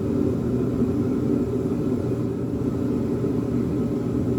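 A steady low machine hum that holds unchanged throughout.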